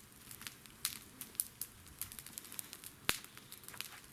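Faint, irregular crackles and clicks, with one sharper snap about three seconds in.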